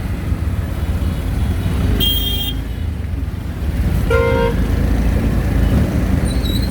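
Auto-rickshaw ride through street traffic: a steady low engine and road rumble, with two short vehicle horn toots, a higher one about two seconds in and a lower one about four seconds in.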